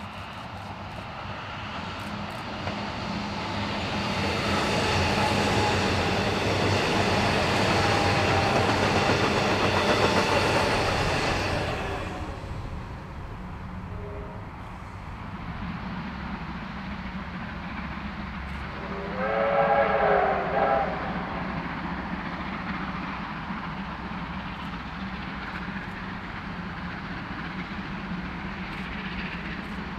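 Suburban electric train running past, its noise building to a peak and cutting off sharply about twelve seconds in. About twenty seconds in, the 4-6-4 steam locomotive R707 sounds its whistle once, for about two seconds; the pitch rises and then falls, over a steady distant rumble.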